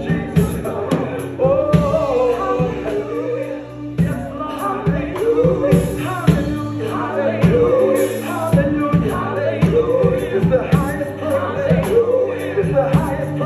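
Live gospel music: a man singing a melody over a band, with regular drum hits and sustained chords.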